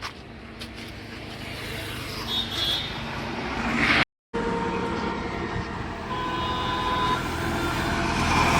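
An engine running steadily, with low hum and mechanical noise that grows louder toward the end. The sound drops out for a moment about four seconds in.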